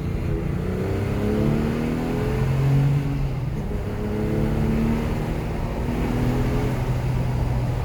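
Porsche 997's flat-six engine accelerating under load. Its pitch climbs over the first few seconds, drops, and climbs again, as the car pulls through the gears.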